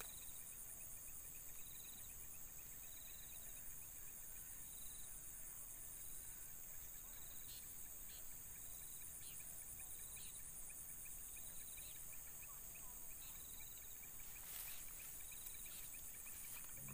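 Insect chorus: a steady high-pitched buzz, with a short chirping trill that repeats about once a second.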